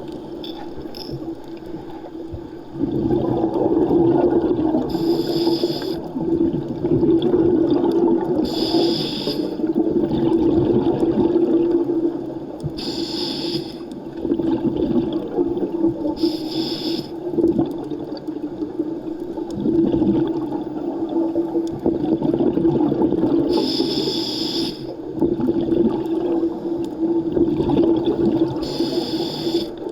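Underwater sound of a scuba diver breathing through a regulator. A steady rushing hum is broken every four seconds or so by a short hiss of exhaled bubbles.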